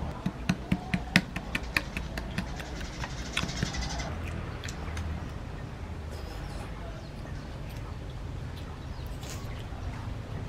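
Wet smacking clicks of someone chewing food with the mouth open, a quick run of about four or five a second in the first couple of seconds. A goat bleats in the background about three seconds in.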